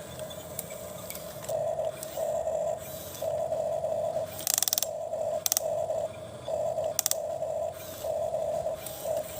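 Toy excavator's small electric gear motor whirring in short runs of about half a second to a second, starting and stopping over and over as the arm is worked. A few sharp clicks or scrapes come near the middle.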